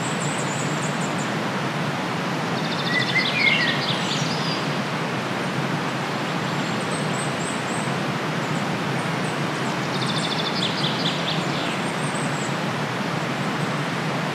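Outdoor nature ambience: a steady hiss with birds calling over it, a short trill about three seconds in and another about ten seconds in, and faint high chirps.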